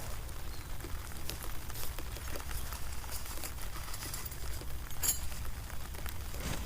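Rain pattering steadily under a low rumble, with scattered small clicks and taps and a sharper click about five seconds in.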